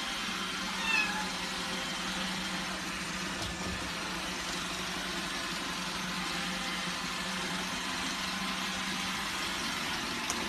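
A cat meows once, briefly, about a second in, over a steady hiss and a low hum.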